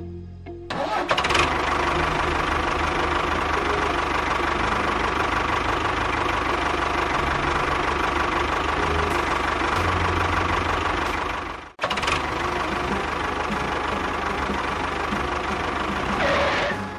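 A small motor running steadily with a dense mechanical noise, breaking off for a moment about twelve seconds in and then running on.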